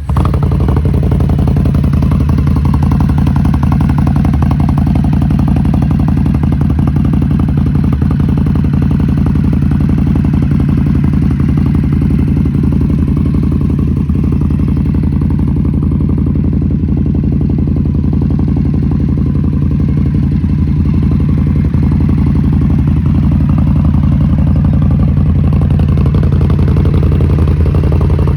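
Indian Scout Bobber Twenty's liquid-cooled V-twin idling steadily through a Roland Sands aftermarket exhaust, just after a cold start.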